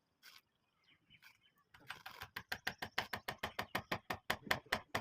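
A rapid series of sharp taps or knocks, about five or six a second, starting about two seconds in after a few scattered clicks.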